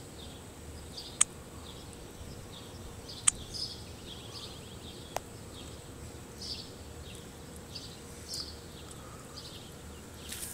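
Faint short chirping calls of a small animal, one roughly every two-thirds of a second, over a steady background hiss. Three sharp clicks stand out, about one, three and five seconds in.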